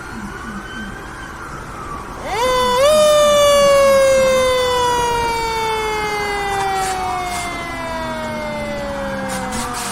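Fire truck's mechanical siren winding up quickly a little over two seconds in, then coasting down in one long, slowly falling wail. A faint, quick repeating chirp is heard before the wind-up.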